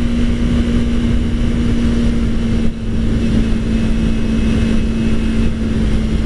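Kawasaki Ninja 300's parallel-twin engine running at a steady cruise. It makes one constant hum that holds the same pitch, with a dense rush underneath.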